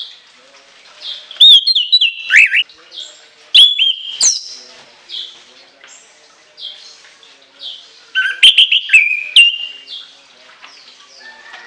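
Orange-headed thrush singing: loud, shrill whistled phrases with quick sweeps up and down, in three loud bursts with softer notes in between.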